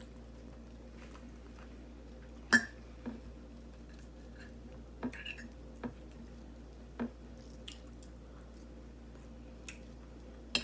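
Close-miked chewing and mouth sounds: scattered short clicks of eating, the sharpest about two and a half seconds in, over a faint steady hum.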